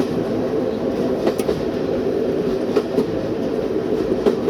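Train running along the line, heard from inside the driving cab: a steady rumble of wheels and running gear, with a sharp click from the wheels crossing a rail joint about every one and a half seconds.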